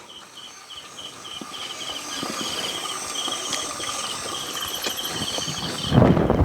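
Crickets chirping in a steady pulsed trill, with a few small clicks and a louder burst of rustling noise near the end.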